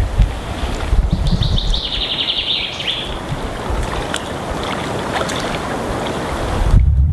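Wind buffeting the microphone over a steady outdoor rushing noise, with a small bird giving a rapid high trill for about two seconds starting a second in. Just before the end the hiss falls away and the low wind rumble grows.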